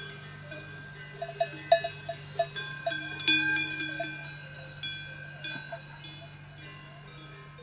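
Small metal bells clinking irregularly, busiest in the first half, over a steady low hum.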